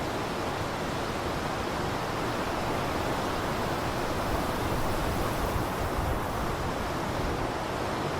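Blizzard wind blowing steadily, a dense low rushing noise without gusts or breaks.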